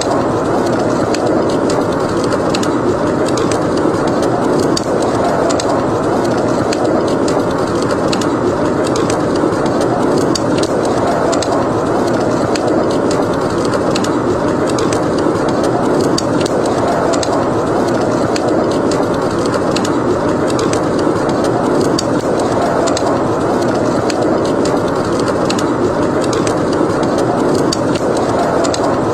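Steady howling snowstorm wind that swells and eases slowly, with a wood fire crackling over it in a stream of small, sharp pops.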